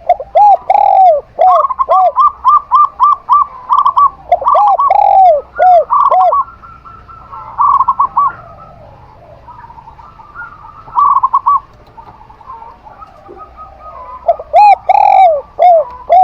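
Zebra dove and spotted dove cooing: rapid series of short, arched coos, about five a second, in bursts. The first runs through about the first six seconds, shorter bursts come near eight and eleven seconds, and a final burst comes near the end.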